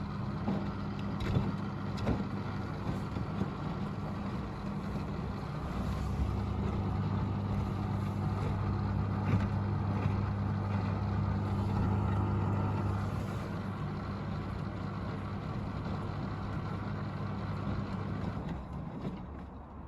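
Beko ECOWMB81445LW washing machine running with a load of towels: a steady motor hum with scattered clicks and knocks, which dies away near the end.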